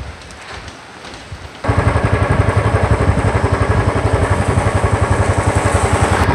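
A motorcycle engine starts up about one and a half seconds in and runs at a steady idle with an even, pulsing beat. Before it there is only a soft hiss.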